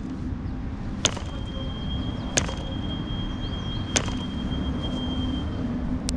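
MK-12V model-aircraft diesel engine being flicked over by its propeller: four sharp snaps, about one every one and a half seconds, without the engine starting.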